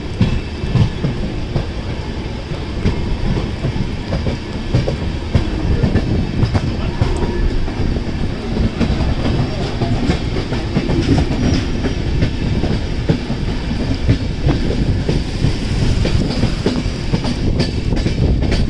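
Passenger train running along the track, heard from an open carriage door: a steady rumble with the wheels clicking and clattering over the rails.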